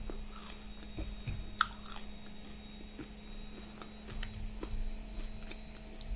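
Close-up chewing of crispy battered beef in sauce, with scattered small crunches and mouth clicks.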